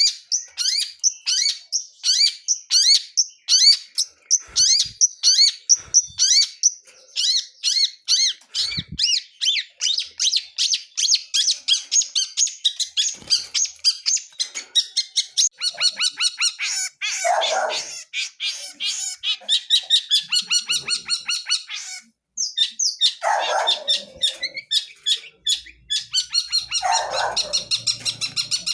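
Long-tailed shrike (cendet) singing a fast, continuous song of short repeated chirping notes that turn into quicker trills about halfway through, with a few harsher, lower rasping notes in the second half, typical of its mimicry-filled song.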